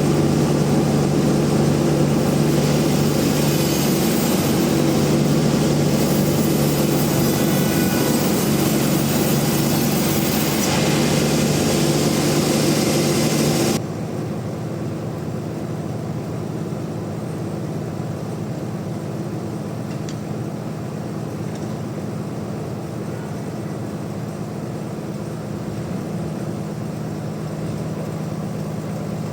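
Heavy engine-driven machinery running steadily with a constant low hum and a hiss. About halfway through, the hiss and loudness drop suddenly, leaving a quieter steady hum.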